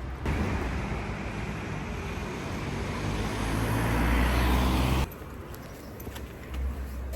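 Road vehicle noise, a dense rumble that swells louder over several seconds and cuts off abruptly about five seconds in, leaving a quieter background.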